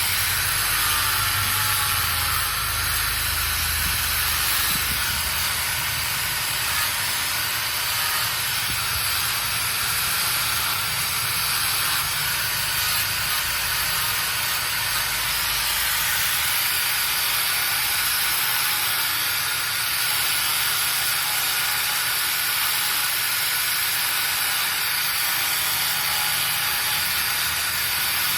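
Steady loud hiss, with a low rumble underneath that stops about halfway through.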